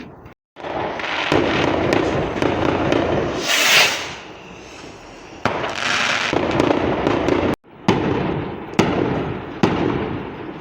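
Fireworks going off: a long run of dense crackling with a hissing whoosh partway through, then loud again with several sharp bangs near the end.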